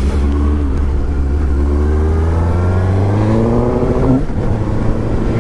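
Suzuki GSX-S750's inline-four engine accelerating, the revs climbing steadily for about three seconds. Around three and a half seconds in they fall, then pick up again.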